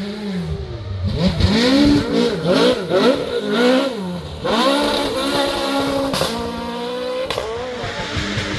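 Rally car engine driven hard on a special stage: the revs rise and fall sharply several times, then hold steady at a high pitch for about two seconds before dropping away.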